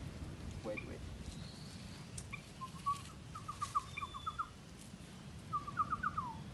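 A bird calling a quick run of short, clear notes, about seven a second, then a shorter run near the end that finishes on a falling note.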